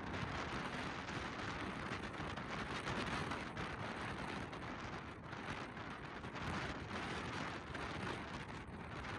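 Steady rain, a dense hiss of falling drops with no single loud event.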